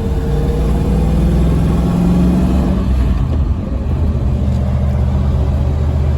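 Chevrolet V8 in a classic Range Rover, its exhaust running through a Walker Quiet-Flow muffler, pulling under a towing load of about 2,500 kg. The revs climb for about three seconds, then fall away, and the engine runs steady.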